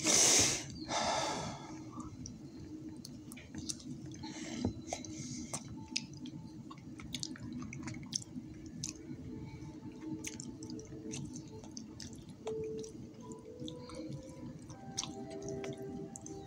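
A man chewing and eating close to the microphone, with wet clicks and smacks of the mouth. A loud rush of breath-like noise opens it, with a second about a second in, and faint steady tones sound in the background in the second half.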